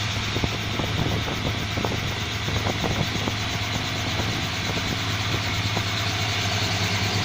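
Helicopter running on the helipad before take-off: a steady engine and rotor drone with a steady high whine over it.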